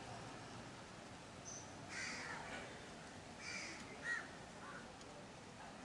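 A few short, harsh bird calls, from about two seconds in to near the end, over faint outdoor background noise.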